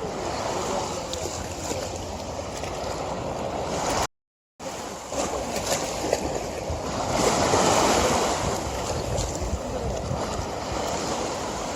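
River water flowing with a steady rush. It cuts out completely for about half a second after four seconds, then surges louder for a second or so around the middle.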